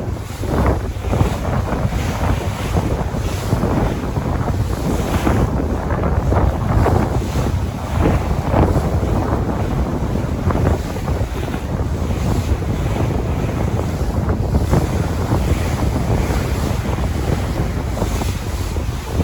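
Sea waves washing and breaking in repeated surges, with heavy wind buffeting the microphone in a constant low rumble.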